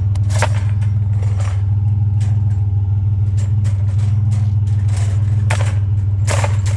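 Truck engine running steadily with a low hum, with scattered sharp clanks and rattles, the loudest about half a second in and near the end.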